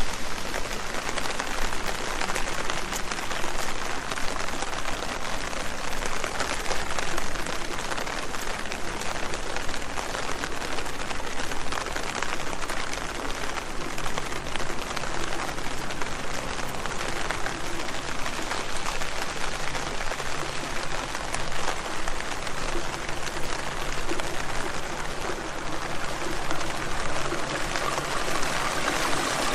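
Steady rain falling on leaves: a dense, even hiss of many small drop impacts.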